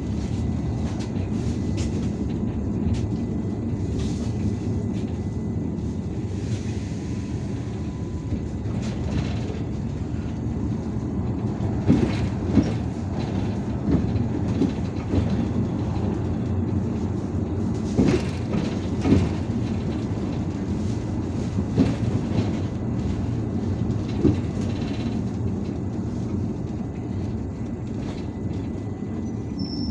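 Cabin noise of an IVECO Urbanway 18M articulated city bus under way: a steady low rumble of engine and road, with scattered knocks and rattles from the body, a few of them sharper about halfway through.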